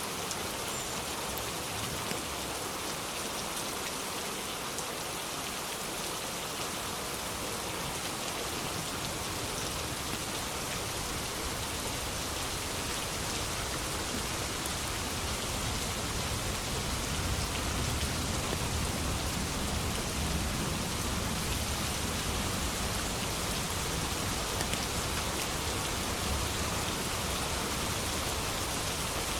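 Steady rain falling, an even hiss of drops. A low rumble of distant thunder swells in the second half.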